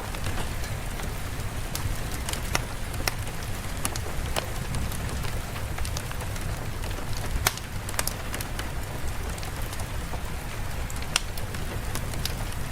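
Steady rain ambience with a low rumble underneath and scattered sharp clicks and ticks at irregular intervals.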